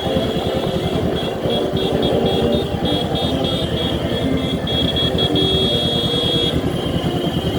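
Motorcycle running under way in traffic, a steady engine and road/wind noise. Over it, a high-pitched beeping repeats about three times a second from about a second in, then holds as a steadier tone and stops near six and a half seconds.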